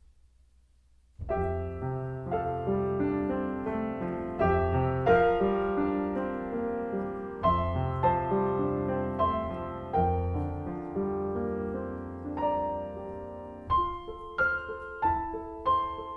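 A piano starts playing about a second in, after a moment of near silence: slow, sustained chords in a quiet, contemplative carol, with quicker notes near the end.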